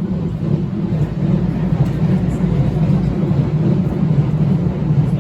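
Train running through a railway station: a loud, steady low rumble.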